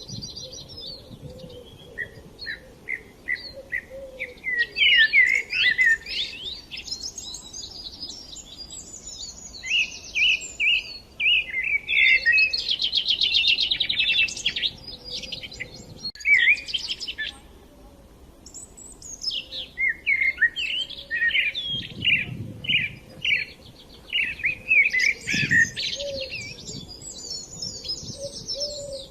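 Small songbirds chirping and singing, several overlapping songs of quick repeated notes and rapid trills, with a brief lull about two thirds of the way through.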